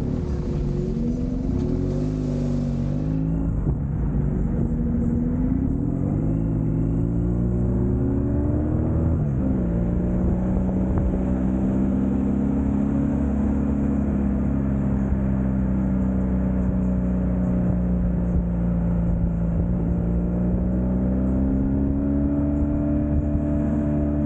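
Motorcycle engine running at road speed, its pitch rising and falling with the throttle for the first several seconds, then holding steady, and rising again about twenty seconds in.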